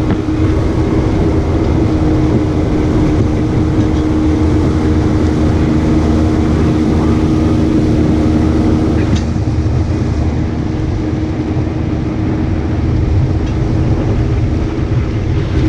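Motorboat running at speed, its engine a steady drone over a constant low rush of noise. The engine tone eases a little after about nine seconds.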